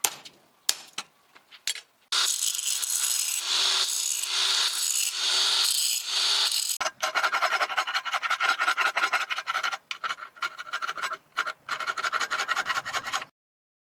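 A few light taps, then about five seconds of continuous abrasive rubbing on the mini axe's steel head. This gives way to quick back-and-forth rasping strokes, typical of filing or sharpening the edge, which stop abruptly near the end.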